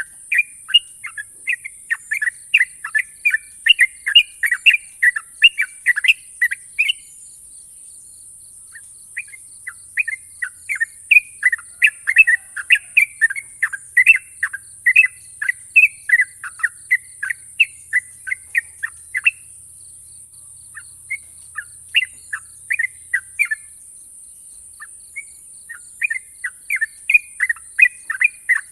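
Yellow-vented bulbul (trucukan) singing in long, rapid runs of short, sharp chirping notes. There is a pause of about two seconds roughly a quarter of the way in, and the notes come sparser a little past the middle before a dense run resumes near the end, over a steady high hiss.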